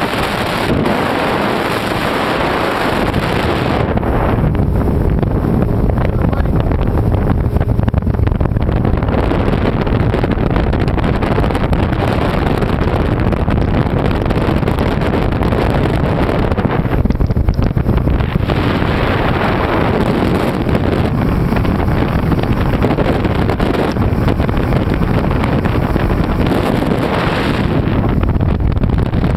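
Motorboat running underway at steady speed, its engine drone mixed with rushing water and wind noise on the microphone.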